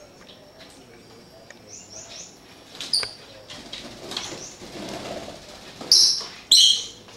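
Pet birds chirping: scattered short, high-pitched chirps, with two loud chirps close together about six seconds in.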